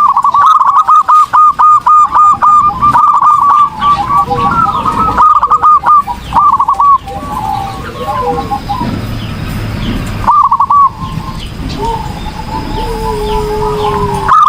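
Zebra dove (perkutut) singing vigorously: loud runs of rapid, repeated cooing notes for the first seven seconds, a quieter stretch, then a short burst about ten seconds in and a long held lower note near the end.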